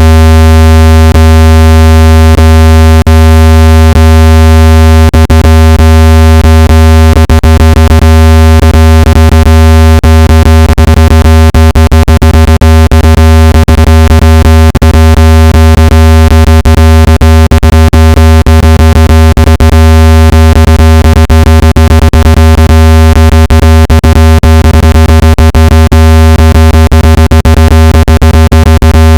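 Loud electronically generated speaker-cleaning tone: a steady low hum with a stack of many overtones, played to vibrate dust and moisture out of a phone speaker. Short sharp clicks break into it, a few at first and then many, close together, from about a quarter of the way in.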